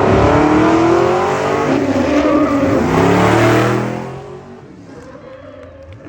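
A vehicle engine accelerating hard, its pitch climbing, dropping back and climbing again as it shifts up. It fades away about four seconds in.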